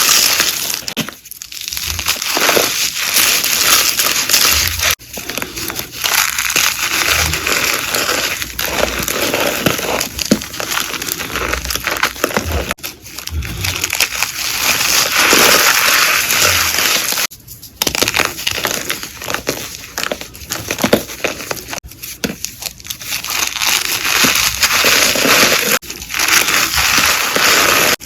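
Blocks of gym chalk being crushed and crumbled by hand: dense, continuous crunching and crackling, broken into several segments by abrupt cuts.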